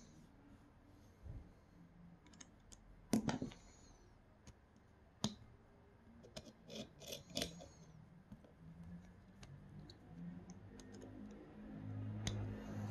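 Scattered small clicks and taps of small metal and plastic extruder parts and tools being handled during disassembly, the loudest click about three seconds in and a quick run of taps around seven seconds in. A low steady hum comes in near the end.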